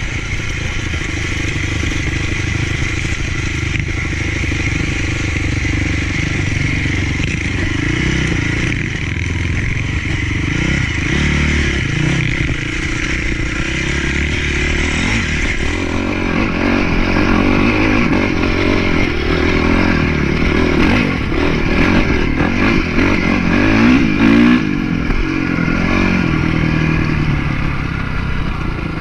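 Motocross bike engine running under way, its revs rising and falling continuously as the throttle is worked, with more frequent swings in the second half.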